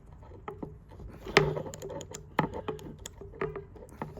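Small metal parts of a pair of Felco No. 2 pruning shears clicking and knocking as a piece is taken off and handled during reassembly: several separate clicks, the loudest about a second and a half in, over a faint steady hum.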